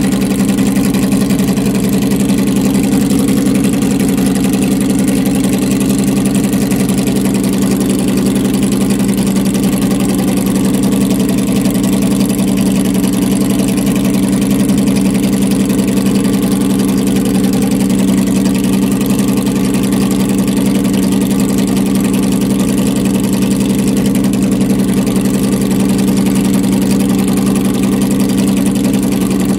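Jaguar XJ13's quad-cam, fuel-injected five-litre V12 idling steadily, with no revving.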